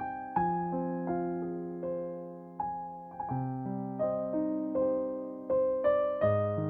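Slow, soft piano music: single notes and chords struck about once a second, each left to ring and fade.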